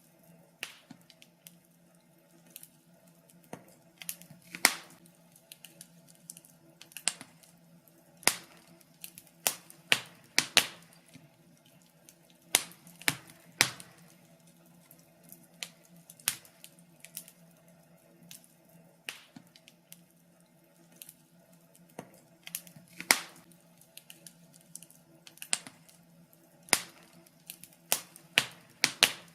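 Wood fire crackling: sharp, irregular pops and snaps, sometimes several in quick succession, over a faint steady low hum.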